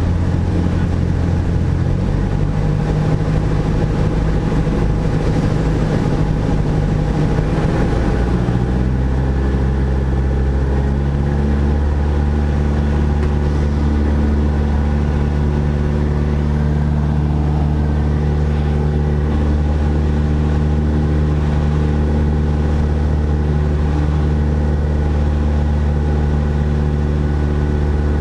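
Cessna 172SP's four-cylinder Lycoming IO-360 engine and propeller running steadily, the engine note shifting a couple of seconds in and again around ten seconds in as the power setting changes.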